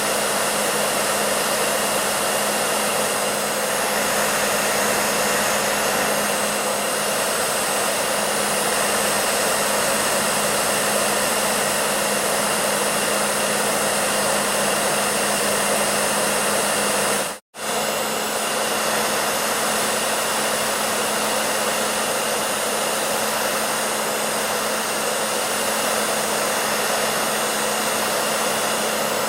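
Hair dryer running steadily: a constant rush of blown air over a low motor hum. It cuts out for a split second a little past the middle, then carries on unchanged.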